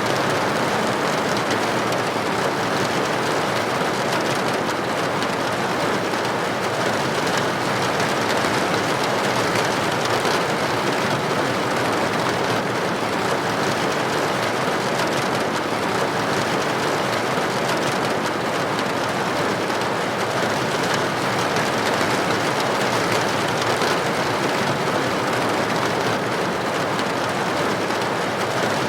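Steady rain striking a building window: an even hiss with fine ticks of single drops.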